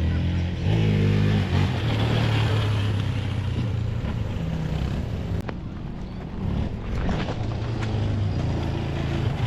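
An engine running steadily, rising a little in pitch about a second in and easing slightly around six seconds in, with a single sharp click about halfway through.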